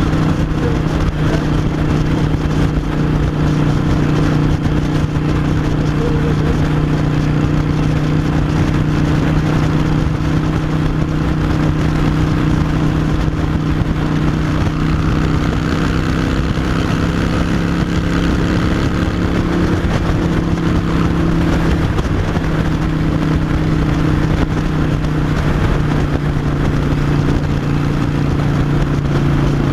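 Harley-Davidson Iron 883's air-cooled 883 cc V-twin, breathing through a Vance & Hines Short Shots Staggered exhaust, running steadily under way. Its pitch rises a little about halfway through, then settles back.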